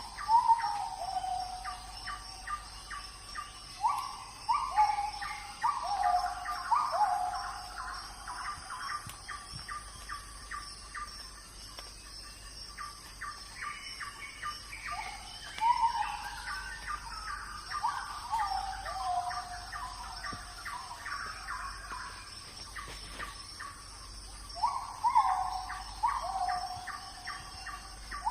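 Animal calls, several overlapping, coming in bouts every few seconds. Each call is a quick rise followed by a falling, stuttering note. Under them runs a steady high-pitched insect drone.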